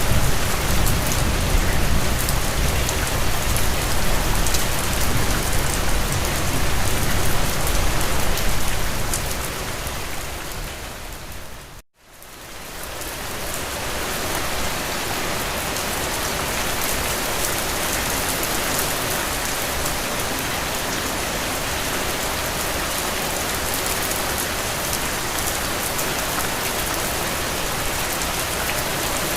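Steady heavy rain falling. About ten seconds in it fades down to a brief silence and fades back up over a couple of seconds, as one rain recording gives way to the next, and the rain that follows has less low rumble.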